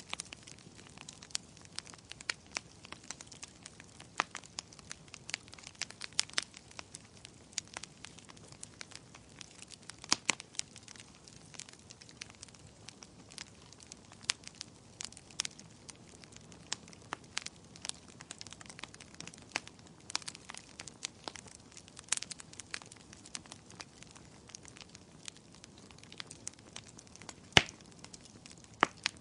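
Wood fire crackling in a fireplace: a faint steady hiss with many irregular sharp pops and snaps, a few of them much louder, the loudest near the end.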